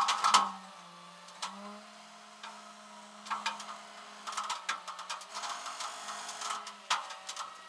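Irregular bursts of mechanical clattering and rattling over a steady hum, loudest at the start.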